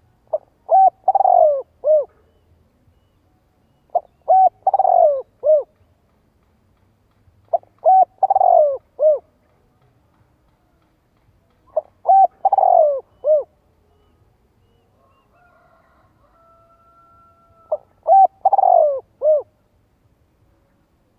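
Spotted dove cooing five times, each a quick run of coos about a second and a half long, spaced a few seconds apart: the territorial call used as a lure to provoke wild doves.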